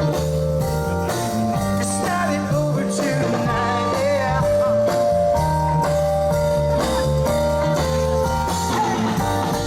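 Rock band music with electric guitar lines over bass, which stops abruptly near the end.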